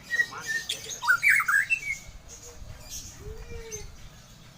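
Caged birds chirping in quick, sharp, falling notes for the first two seconds, then fading to faint scattered calls.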